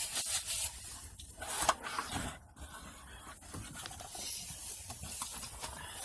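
Scraping and rustling of a cardboard pizza box being opened and handled, with a few short knocks.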